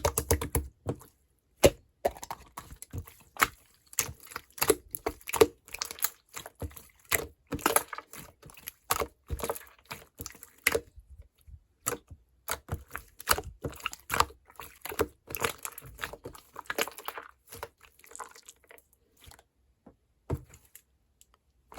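Clear slime being handled, with irregular sticky pops and crackles that come in quick clusters and thin out near the end.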